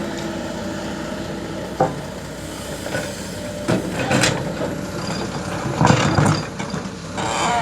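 Excavator's diesel engine running steadily, with several sharp knocks and clatters from the machine at work, the loudest about six seconds in.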